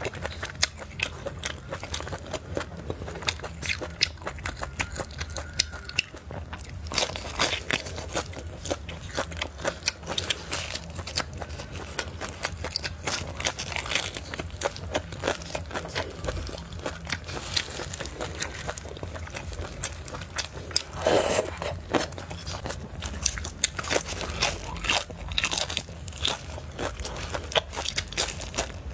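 Biting and chewing pan-fried pork intestine, a continuous run of crunchy, wet clicks and crackles.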